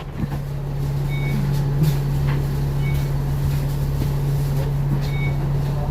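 Bus engine running with a steady low drone, heard from inside the cabin, with a few faint short beeps.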